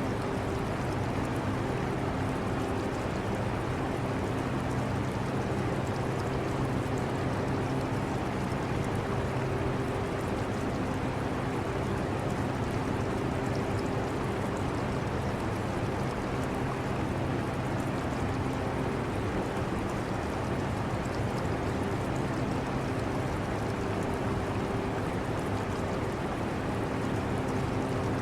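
Portable air conditioner running: a steady low hum under an even rush of air, mixed with the water sound of an aquarium.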